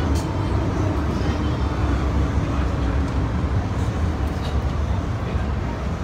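MTR M-Train electric multiple unit running between stations, heard inside the carriage: a steady low rumble of wheels on rail with a faint whine above it.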